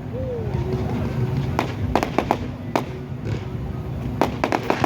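Fireworks exploding at a display: a few separate sharp bangs, then a quick run of cracks near the end, over a steady low rumble.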